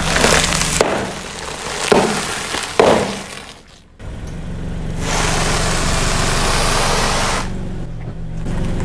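Car tyre rolling over and crushing brittle objects: four sharp cracks and breaking snaps in the first three seconds over a low engine hum. After an abrupt cut, a steady rushing noise follows, briefly dropping away near the end.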